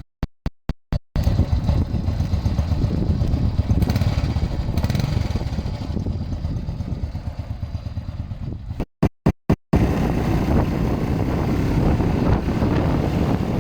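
Hero Honda Street's 100 cc single-cylinder engine running steadily. The sound cuts out several times in quick succession in the first second, and again about nine seconds in.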